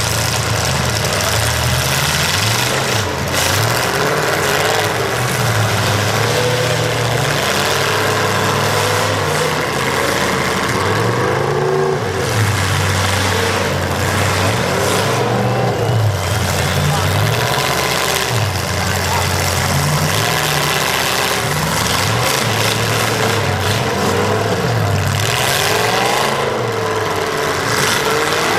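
Several demolition derby cars' engines running at once, revving up and down over one another without a break.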